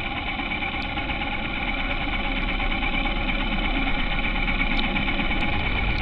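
Honda H'ness CB350's single-cylinder engine running steadily while the bike is ridden, growing slightly louder in the first few seconds.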